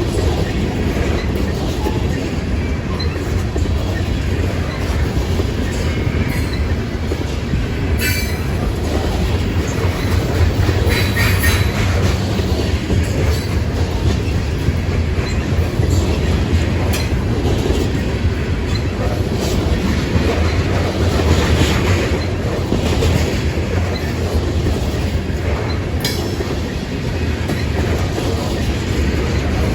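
Loaded grain hopper cars of a freight train rolling past at speed: a steady low rumble of wheels on rail with rhythmic clacking over rail joints and brief wheel squeals.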